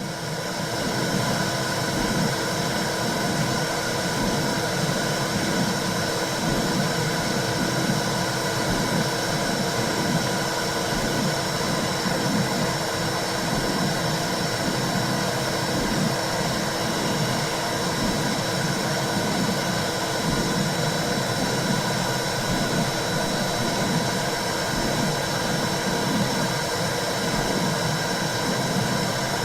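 Womb sound for calming a baby: a steady, dense whooshing noise with a low pulse beating beneath it about once a second.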